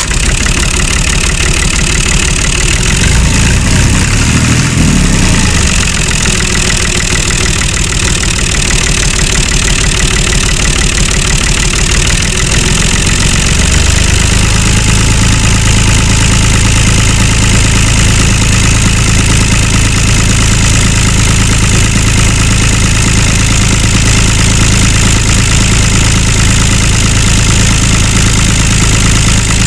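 A small motor running steadily, with an unsteady patch in the first half before it settles into an even hum.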